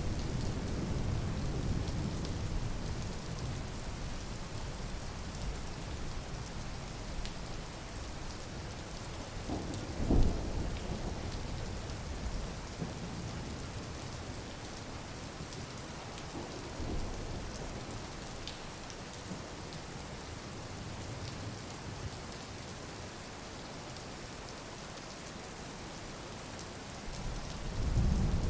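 Steady rain falling, with low rumbles at the start and again near the end, and a brief louder thump about ten seconds in.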